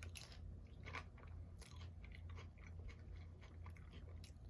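Close-up chewing and crunching of crisp chips with dip in the mouth, with several sharp crunches, the clearest about a second in and a little later. A faint steady low hum runs underneath.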